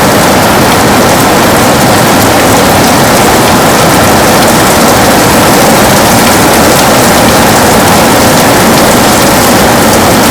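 Heavy rain falling steadily on a window, a loud, even hiss of drops with fine pattering in the highs.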